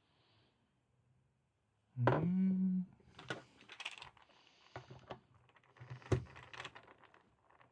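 Small parts of a KWC Taurus PT24/7 Pro DS pistol being handled during slide disassembly: a run of sharp clicks and light clatters in the second half. About two seconds in, a brief hum rising in pitch, like a voice, is the loudest sound.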